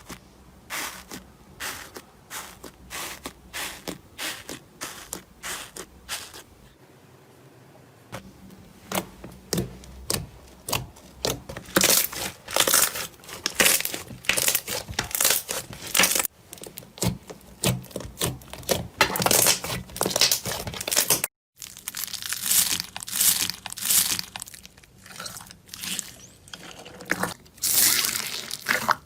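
Slime being squeezed and poked by hand, giving rapid runs of crunchy clicks, crackles and pops. The sound is softer for the first several seconds and louder after that, with a short cut to silence about 21 seconds in before it goes on.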